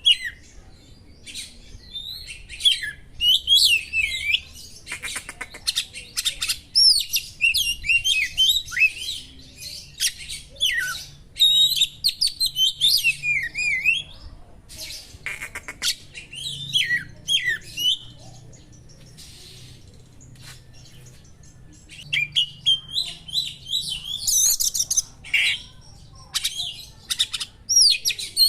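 Oriental magpie-robin (kacer) singing a fast, varied song of whistles, slurred notes and harsh buzzy rattles, mixing in phrases copied from small birds. There is a quieter pause partway through.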